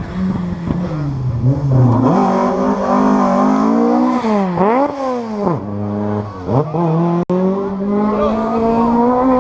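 Historic rally car engine revving hard: the pitch climbs and drops several times as the driver changes gear, with quick throttle lifts and blips around the middle.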